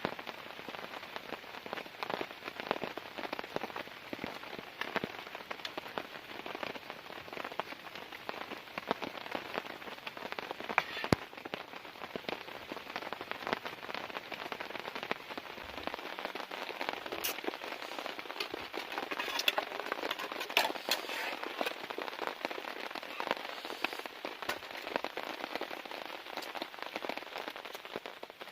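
Heavy rain falling steadily on a tent, with a dense patter of individual drops striking close by and a few sharper, louder hits.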